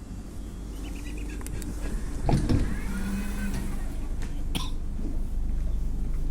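Train running with a steady low rumble that slowly grows louder, broken by a few sharp clicks and a brief high squeal about halfway through.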